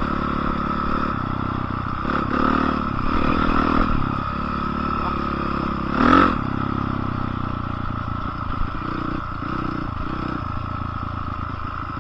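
Dirt bike engine running while being ridden, with a brief rev about six seconds in.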